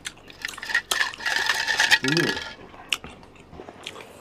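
Clicks and clatter of cutlery and shellfish shells being handled while eating garlic-butter seafood, with a denser scraping stretch in the middle and a short vocal hum just after it.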